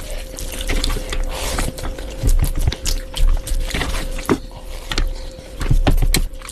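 Close-miked eating: irregular wet smacks, clicks and crunches of chewing and biting food, over a steady faint hum.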